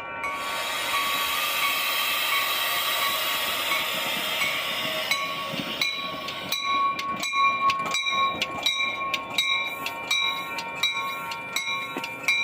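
A train passing: a steady rush of wheel noise, which turns about halfway through into a regular clicking of wheels over rail joints, about two to three clicks a second. A steady ringing tone runs underneath.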